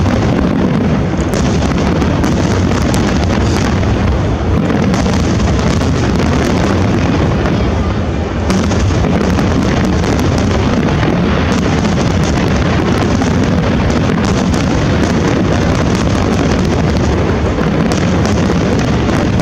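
A dense fireworks barrage: many aerial shells bursting in rapid succession, a continuous loud mass of booms and crackle.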